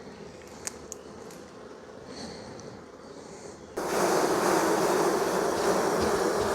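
Honeybees buzzing at an open hive, a low hum with a couple of faint clicks. About four seconds in the buzzing becomes suddenly much louder and fuller.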